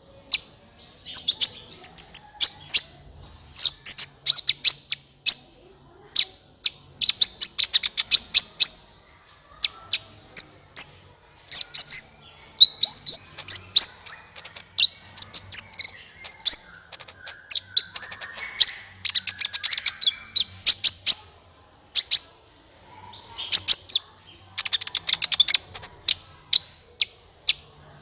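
Sunbird ('kolibri ninja') song used as a lure call: bursts of sharp, high chirps and fast rattling trills, repeating over and over.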